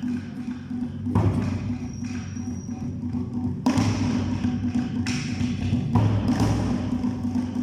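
Live Awa Odori festival music: Japanese drums struck in heavy beats roughly once a second, each hit booming low, with lighter percussion taps between them.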